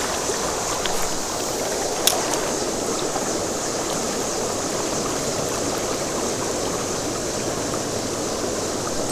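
Creek water rushing steadily over a shallow, rocky bed, with one brief click about two seconds in.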